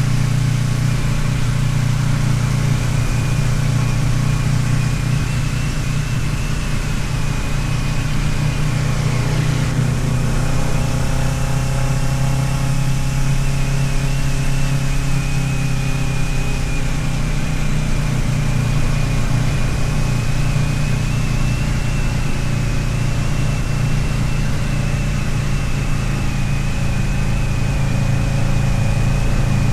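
Kawasaki Ninja 650R's parallel-twin engine running steadily while the motorcycle rides along.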